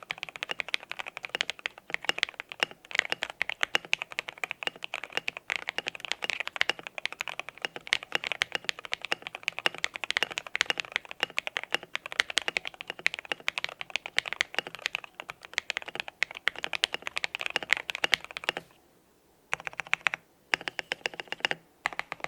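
Fast, steady typing on a custom KBD67 Lite mechanical keyboard with lubed JWK Alpaca linear switches, a polycarbonate plate, foam and tape mods, and Infinikey 808-Boom keycaps. Near the end the typing stops briefly, then resumes in short spurts.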